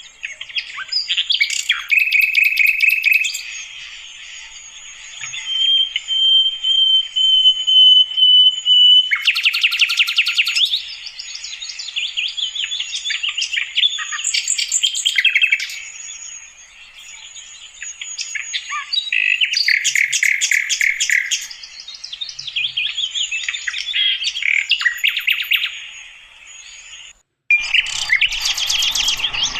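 Sikatan londo flycatcher singing: varied phrases of quick chirps and buzzy trills, with one long level whistle about six seconds in. About 27 seconds in the sound breaks off for a moment and resumes with denser twittering.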